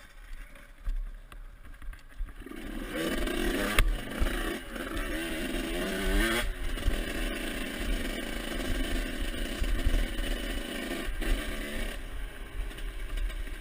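Motocross bike engine running, its revs rising and falling a few seconds in, then holding steadier.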